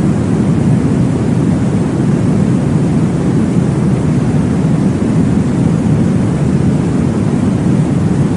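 Steady, deep whooshing noise from a baby-sleep white-noise or womb-sound track, heaviest in the low range and even throughout, with no distinct heartbeat pulse.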